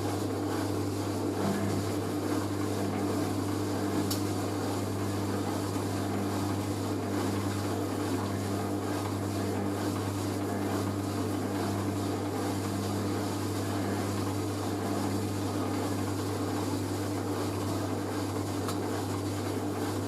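Hoover A3060 Electronic 1100 washing machine chugging away on a spin with a heavy jumbo sofa throw pinned to the drum: a steady motor and drum hum.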